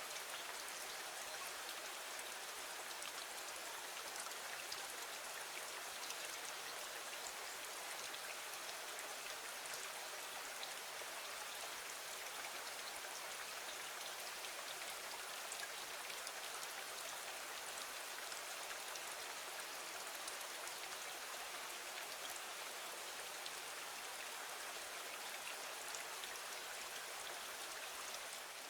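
Gentle, steady rain falling against a window: a constant hiss flecked with faint scattered ticks of single drops.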